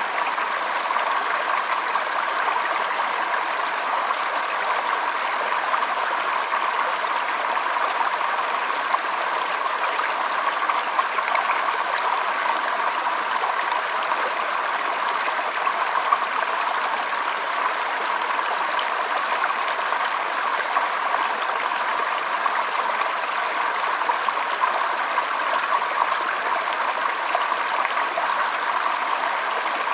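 Stream water flowing and trickling steadily, an even rushing splash with no breaks.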